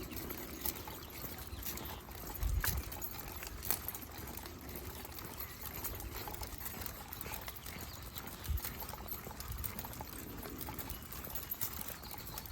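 Footsteps of a walker and a pack of dogs on a trail: irregular scuffs and clicks, with heavier thumps about two and a half seconds in and again near the eight-second mark.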